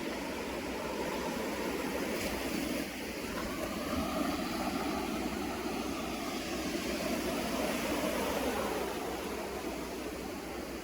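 Sea waves breaking and washing on the shore: a steady rush of surf that swells louder for several seconds in the middle and eases off near the end.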